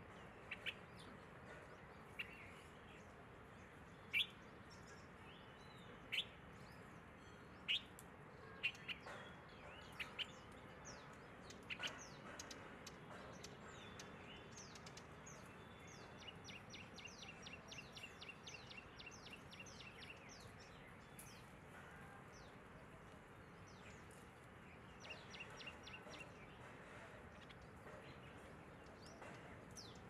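Birds chirping: single short, sharp chirps every second or two, then a rapid run of repeated chirps, about five a second, lasting a few seconds, and a shorter run near the end. A faint steady hiss lies underneath.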